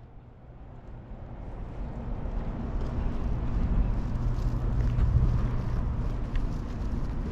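Low, steady vehicle engine rumble, growing louder over the first few seconds and then holding level.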